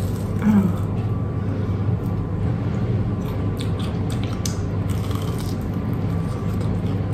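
Biting, chewing and pulling apart a battered, deep-fried Dorito: small crisp crackles and clicks, most of them past the middle, over a steady low hum.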